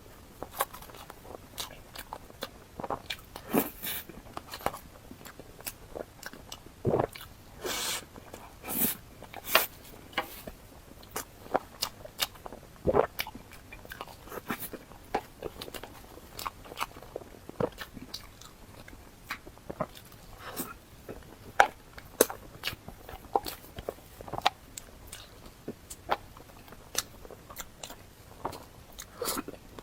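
Close-miked eating: a person biting and chewing, with many sharp, irregular crunching clicks and a few louder bites.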